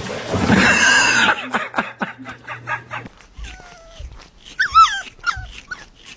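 A dog whining and yipping in high calls that slide down in pitch, after a loud, noisy sound during the first second.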